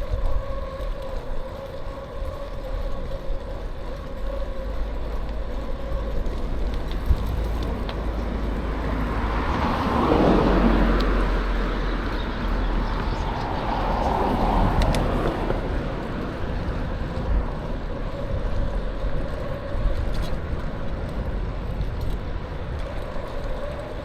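Wind rumble and road noise while riding a bicycle along a street, with a steady faint hum underneath. Two motor vehicles pass close by, swelling and fading about ten and fourteen seconds in.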